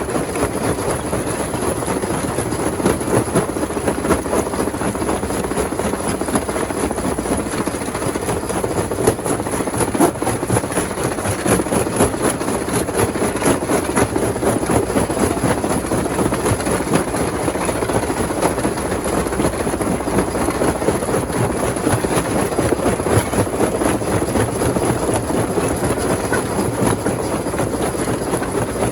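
Rock crusher running under load, a steady heavy grinding din full of small clattering knocks as stones break and tumble through it.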